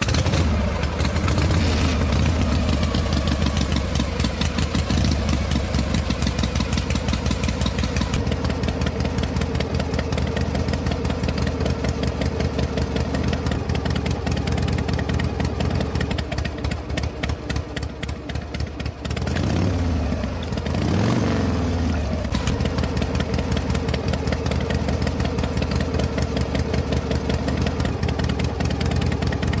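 Miniature model diesel engine running steadily at high speed with a rapid, even firing rhythm. About two-thirds of the way through, its speed sags and then climbs back up.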